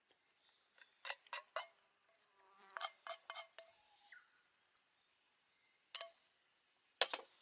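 Light clicks and small clinks of things being handled, in short clusters about a second in, around three seconds, and again near the end.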